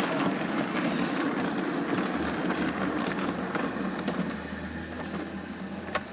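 O gauge model train running along the layout track, its motor humming low from about two seconds in, with a few clicks from the wheels on the rails.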